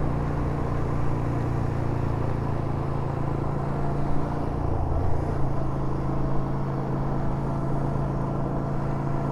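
Yamaha SRV250's air-cooled V-twin engine running steadily while the motorcycle is ridden, its note dropping slightly about halfway through.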